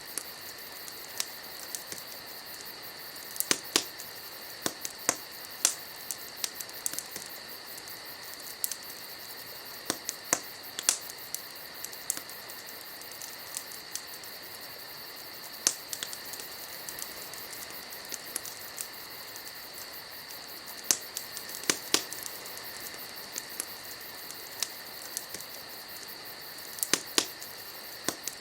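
Wood fire crackling: irregular sharp pops and snaps, some loud, over a steady high hiss.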